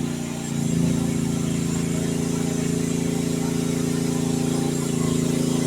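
Youtop YT15 mini excavator engine running steadily; its note sags briefly, then picks up again under hydraulic load a little under a second in, and shifts once more near the end.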